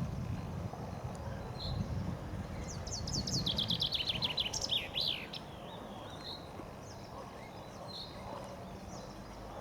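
Common chaffinch singing one song about three seconds in: a fast trill of notes falling in pitch, ending in a flourish, about two and a half seconds long. Short single bird notes come every second or two over a low rumble.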